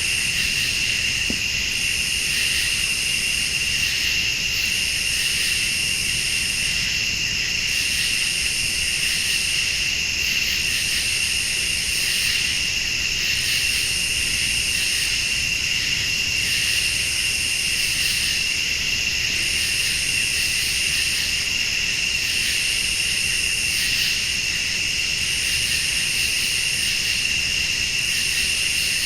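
Late-summer night insects: crickets trilling steadily, with a higher-pitched insect chorus switching on and off about every two seconds. A low, steady rumble lies underneath.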